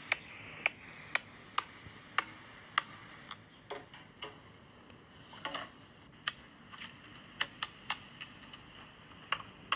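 A series of sharp, light clicks or taps, about two a second at uneven spacing, over a faint hiss, with a brief soft scraping sound about halfway through.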